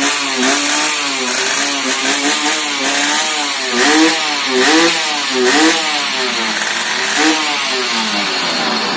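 Yamaha F1ZR's two-stroke single running through a modified exhaust with its silencer chamber gutted. The throttle is blipped over and over, so the engine pitch rises and falls several times.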